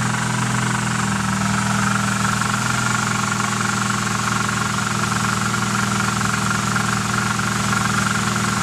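Nissan KA24DE 2.4-litre four-cylinder engine idling steadily with a weird, rapid ticking over the engine note, a noise whose cause the owner does not know.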